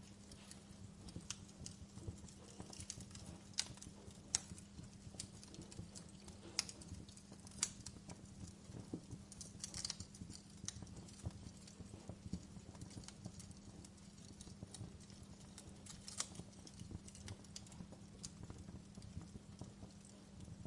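Wood fire crackling in a fireplace: irregular sharp pops and snaps, some louder than others, over a steady low rumble of burning.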